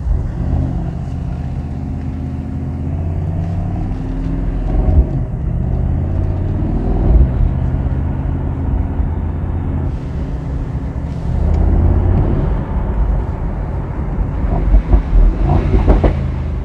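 Mercedes-AMG SL 63's twin-turbo V8 accelerating under load, its pitch climbing and dropping back several times as it shifts up through the gears. Near the end there is a cluster of sharp cracks from the exhaust.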